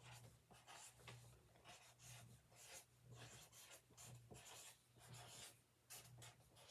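Faint scratching of a pen writing on paper, in short quick strokes.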